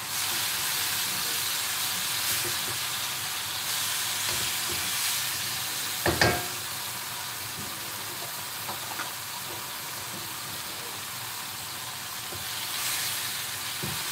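Turkey, noodles and bean sprouts sizzling steadily in a wok over a gas flame as they are stirred and tossed. About six seconds in there is a single sharp clank with a short ring.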